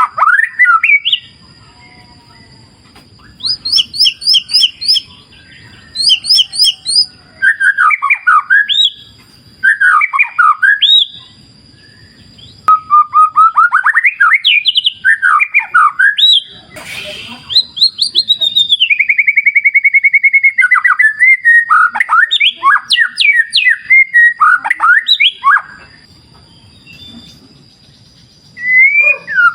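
White-rumped shama (murai batu) singing: a varied run of loud whistled phrases, pitch sweeps and rapid trills with short pauses between them. A faint low rushing of river water fills the gaps.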